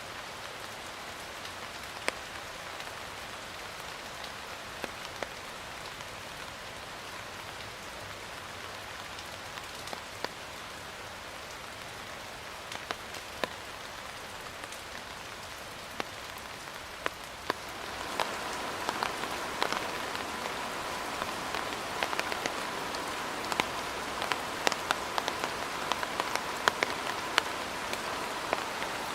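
Steady rain falling, with individual drops ticking sharply on a surface over the hiss. About eighteen seconds in the rain grows louder and heavier, with more drop hits, and a faint steady tone comes in with it.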